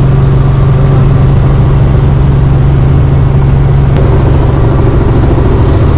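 Helicopter in flight, heard from inside the cabin: a loud, steady engine and rotor drone with a constant low hum.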